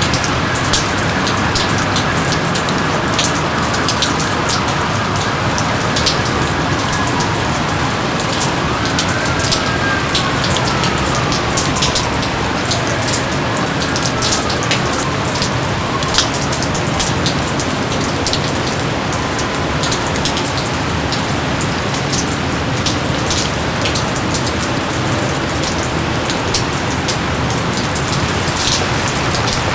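Steady jungle rain falling, with many sharp drops ticking close by. A few faint falling whistles come in the first half.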